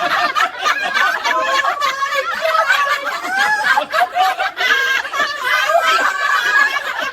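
Several people laughing together, with overlapping voices and no break.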